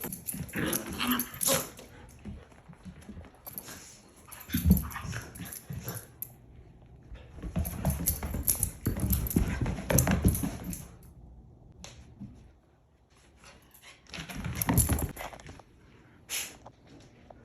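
A husky and a Shiba Inu playing chase: dog noises come in about four loud bursts separated by quieter gaps, with a short sharp sound near the end.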